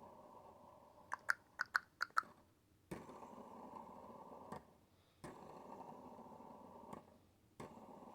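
Hampton Bay Littleton ceiling fan's motor humming faintly, cut on and off at its switch several times, so the hum starts and stops abruptly with a click. About a second in comes a quick run of six sharp switch clicks.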